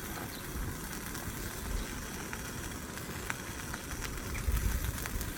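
Beef rump steak frying in a pan, with scattered faint crackles over a low, uneven rumble.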